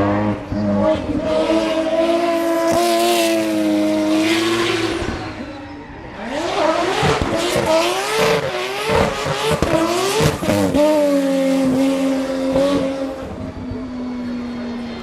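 Drift car engine revving hard with tyres squealing through a drift; the revs swing up and down quickly several times in the middle, then settle to a steadier, quieter note near the end.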